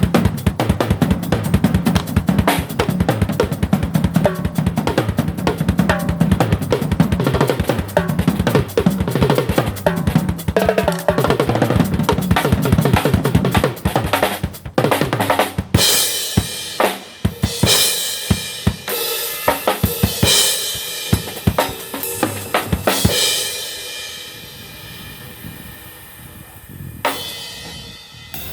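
Drum kit played in a fast, dense groove of bass drum, snare and rimshots. About halfway through it shifts to cymbal crashes and scattered hits. The cymbals ring out and fade before one more hit near the end.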